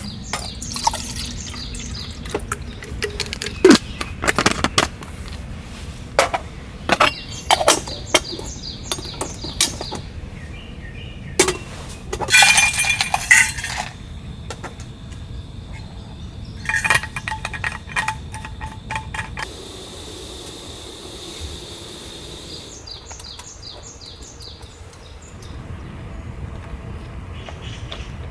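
Clinks, knocks and clatters of camping cookware and gear being handled, as a series of separate sharp sounds with a denser rattle about halfway through. A faint steady high tone runs for several seconds in the middle.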